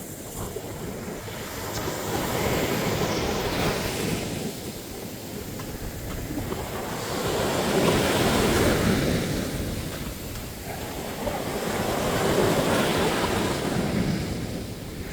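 Sea waves breaking and washing up on a beach, the surf swelling louder and easing off every few seconds.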